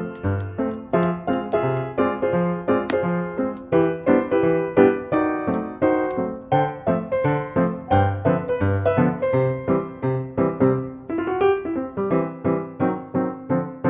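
Background music: a piano playing a steady, evenly paced tune of repeated notes.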